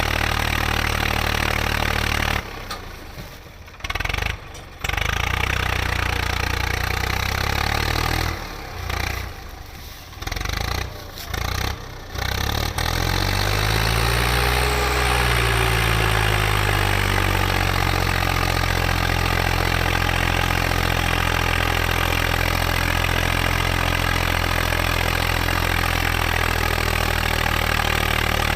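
Tractor engine running steadily, cutting out abruptly several times in the first half. About halfway through it revs up and settles back down, then runs evenly to the end.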